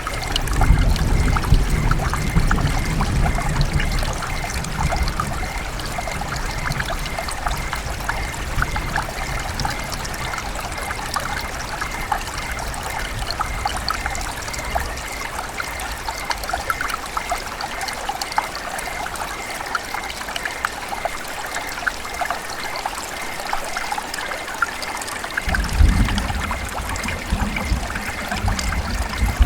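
River water running and trickling, a steady babble of many small splashes. A low rumble sits under it for the first few seconds and comes back near the end.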